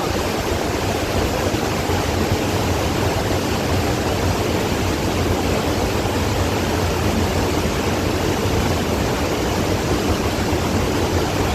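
Steady rushing noise with a fluctuating low rumble: wind buffeting the phone's microphone.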